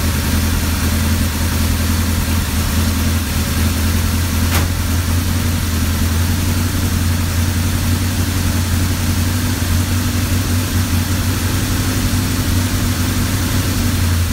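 Ford Model A hot rod's engine idling steadily, just after a reluctant first start.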